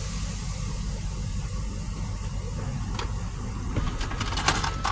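Steady low rumble of a car's idling engine heard from inside the closed cabin, with a steady high hiss over it. A few short clicks come near the end.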